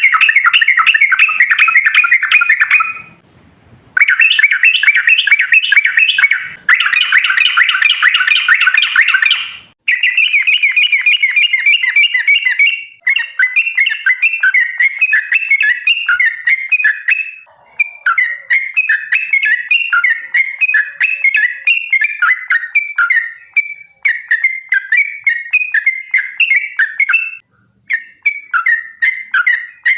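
Yellow-vented bulbul (trucukan) singing its long, rapid bubbling song in runs of quick chattering notes, with short breaks every few seconds.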